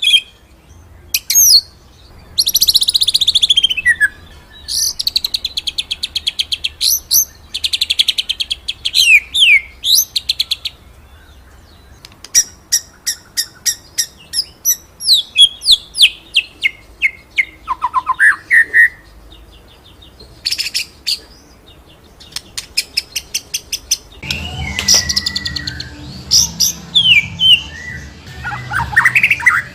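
White-rumped shama (murai batu) singing the fast 'rolling and shooting' song, with long runs of rapid repeated notes and sharp whistled slides in between. About 24 s in, a low steady hum comes in beneath the song.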